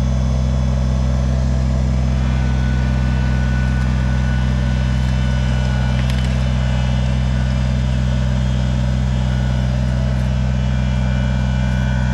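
Tractor engine running steadily while pulling a disc hiller attachment to throw up rows in garden soil.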